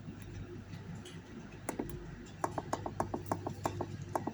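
Rapid clicking of buttons pressed on a frequency inverter's keypad while a parameter value is keyed in, over a low steady hum.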